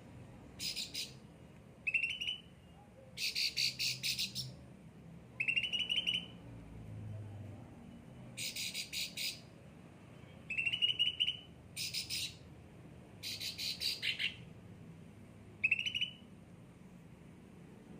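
A yellow-headed 'ocean green' songbird singing about a dozen short phrases of fast high notes, each a second or less long and spaced a second or two apart. Several phrases end in a quick rising chirp.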